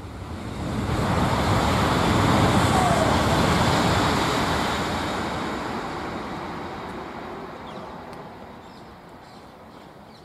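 High-speed electric train passing at speed: a rushing sound that swells in about a second and a half, then fades slowly away as the train recedes.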